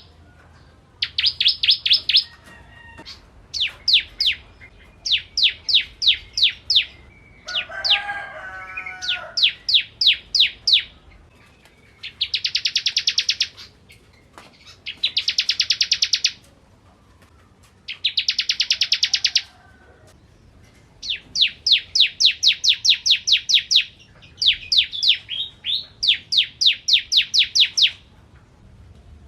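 Bar-winged prinia (ciblek kristal) singing: repeated bursts of fast, high, rapid-fire notes, each burst a second or two long, with short pauses between. A lower chattering call breaks in about eight seconds in.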